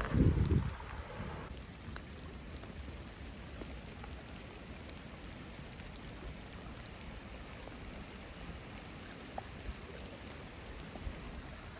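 Steady rain with a few scattered drops ticking close by, after a brief low buffet of wind on the microphone at the very start.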